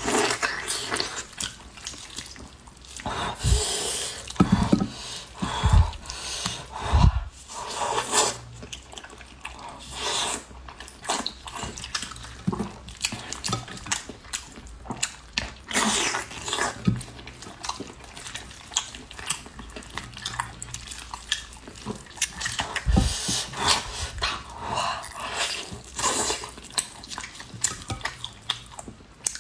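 Close-miked eating sounds of someone chewing pork knuckle: irregular smacking and clicking of the mouth, with a few low thumps.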